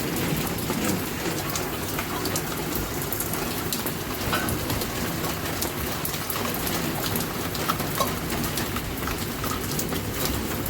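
Heavy rain falling steadily, a constant hiss dotted with many sharp individual drops hitting nearby surfaces.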